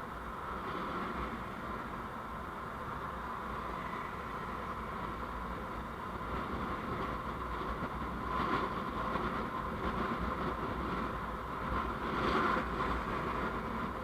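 Steady road and engine noise of a vehicle driving in traffic, as picked up by a dashcam microphone, swelling briefly twice, about eight and twelve seconds in.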